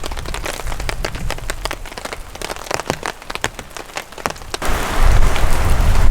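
Rain falling, with many separate drops striking close to the microphone. About three-quarters in, a strong gust of wind hits the microphone and a loud low rumble takes over.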